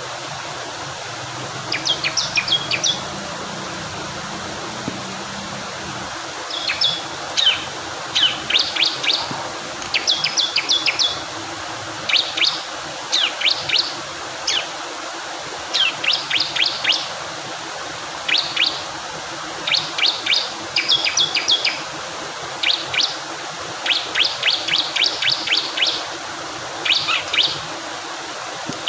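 Bar-winged prinia (ciblek kristal) singing short, rapid bursts of high chirping notes again and again, over the steady rush of flowing water.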